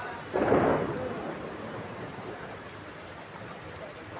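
Steady rain noise. About a third of a second in, a brief louder rush rises suddenly and fades over about a second.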